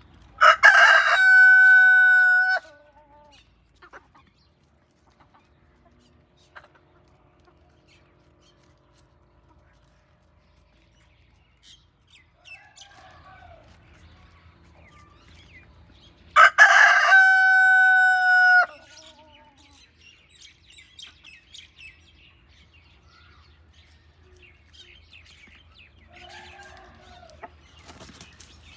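A rooster crowing twice, each crow a long call of about two seconds ending on a held note, roughly fifteen seconds apart. Faint clucking from hens in between and near the end.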